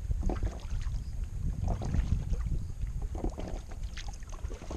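Kayak paddle strokes dipping and splashing in lake water about every second and a half, with a steady low rumble of wind buffeting the microphone.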